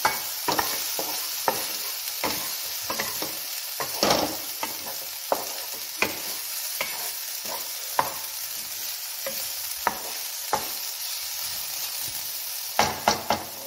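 Chopped onions and green chillies sizzling in hot oil in a non-stick wok while a spatula stirs them, scraping and clicking irregularly against the pan, with a few louder knocks near the end.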